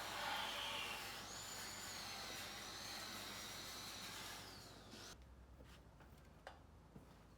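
Handheld electric power tool running with a high whine for about four and a half seconds, then winding down and stopping. A few light clicks follow.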